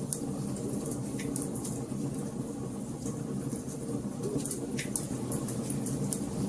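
Wood fire burning in a fireplace: a steady low rumble of the flames under frequent small crackles, with two sharper pops about a second in and just before five seconds.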